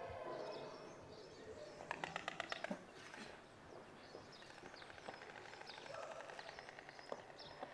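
Small birds chirping with short high calls, and a quick rattle of evenly spaced ticks lasting under a second about two seconds in.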